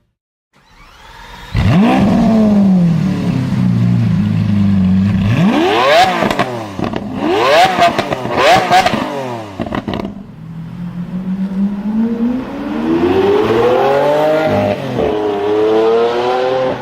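Lamborghini Diablo V12 starting with a flare that settles to a steady idle, then three quick throttle blips. After a cut, the engine pulls away under acceleration, its pitch climbing, dipping once at a gear change, then climbing again.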